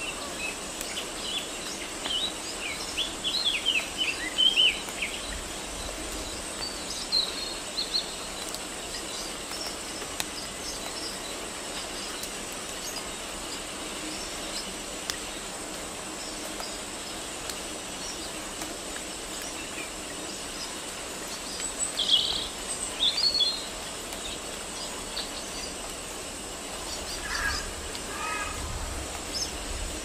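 Small birds chirping now and then over a steady outdoor background hiss, with two short flurries of calls, one a few seconds in and one past the twenty-second mark.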